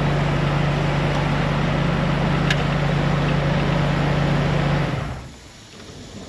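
Mercedes S600's rebuilt M120 V12 idling steadily, then switched off about five seconds in, the sound dying away within half a second. The engine runs on all cylinders but lacks power.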